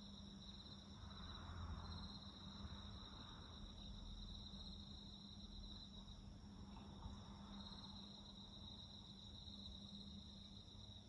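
Faint chorus of night insects, crickets, trilling steadily in several high continuous tones, some pulsing. A soft low rumble swells twice underneath, about two seconds in and again about seven seconds in.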